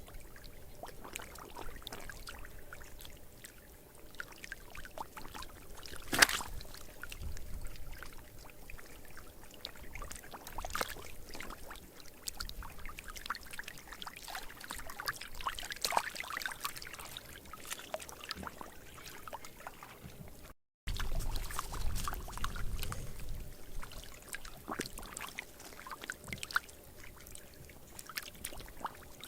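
Water splashing, pouring and trickling, with many small knocks and clicks. A sharp knock about six seconds in is the loudest sound, and the sound drops out briefly about two-thirds of the way through.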